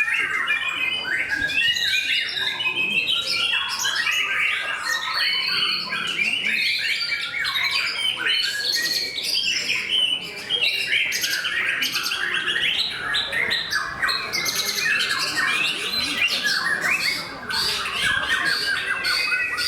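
White-rumped shama (murai batu) singing a continuous, rapid run of varied chirps and whistled phrases with no pauses.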